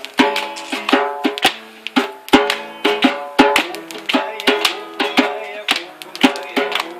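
Acoustic guitar strummed in a steady rhythm with djembe hits, an instrumental passage with no singing.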